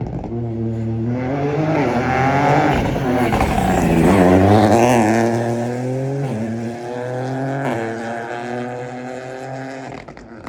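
Rally car engine accelerating hard along the stage as it passes, loudest about four seconds in. The pitch climbs and then drops sharply at each upshift, twice in the second half, before the sound fades away.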